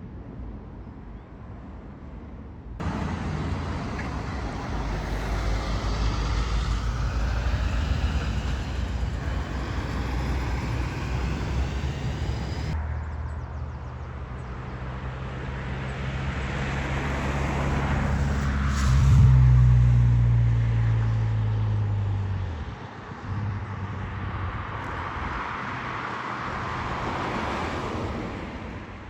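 Road traffic passing close by: motor vehicles with a low engine note, starting suddenly about three seconds in. It is loudest about two-thirds of the way through, where a heavy vehicle's engine note falls in pitch and drops away, leaving softer road noise.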